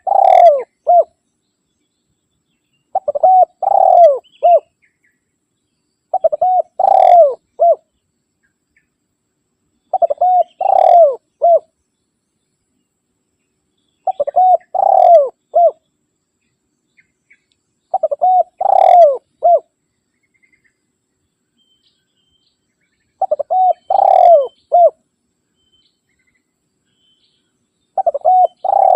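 Spotted dove (tekukur) cooing: the same phrase of a few short coos running into a longer, stronger coo repeats about every four seconds, with silence between phrases.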